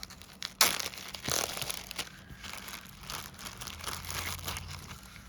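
Plastic crinkling and rustling as pieces of a paper-craft card kit are handled, with one sharp tap about half a second in, louder than the rest.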